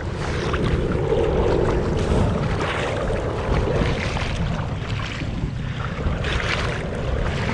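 Kayak paddle strokes splashing into the sea every second or two, under steady wind buffeting the microphone.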